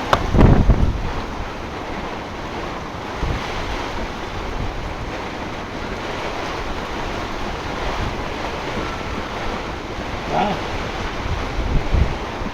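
Storm wind and heavy rain lashing a moored sailboat, a steady rushing noise. Gusts buffet the microphone with low thumps, hardest just after the start and again near the end.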